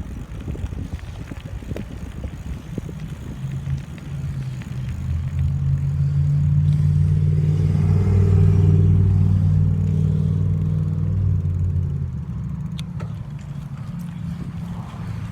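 Wind rumbling and buffeting on the microphone of a rider on a moving mountain bike. A steady low hum swells in from about four seconds in, is loudest around the middle, and fades out a few seconds before the end.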